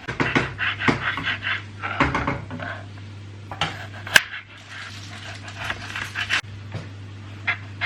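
A dog panting in quick, rhythmic breaths, with a sharp clink of crockery about four seconds in, over a steady low hum.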